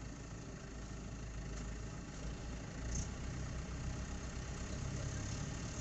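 Diesel engine running steadily with a low rumble; its note grows a little louder and clearer about three seconds in.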